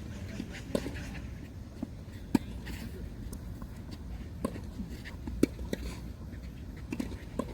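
Tennis rally: a tennis ball being struck and bouncing, sharp pops every one to two seconds over a low steady rumble.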